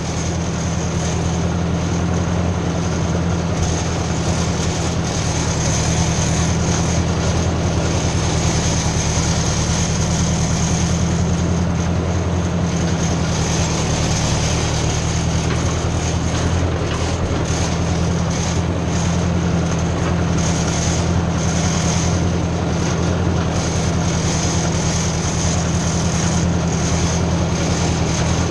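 Ford 600 tractor's four-cylinder engine running at a steady speed as the tractor drives along, with an even hum and no change in revs.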